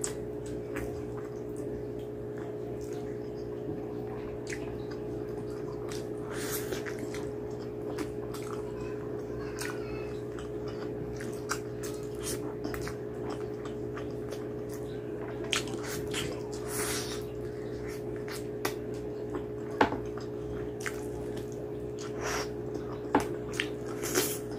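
Close-up eating sounds of mutton curry eaten by hand: wet chewing, lip smacks and squishy clicks of fingers and mouth on saucy meat, scattered and irregular, with a few sharper smacks near the end. A steady low hum runs beneath.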